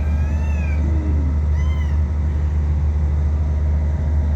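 Small kitten meowing twice in the first two seconds, high-pitched calls that bend up and down in pitch, over a steady low hum.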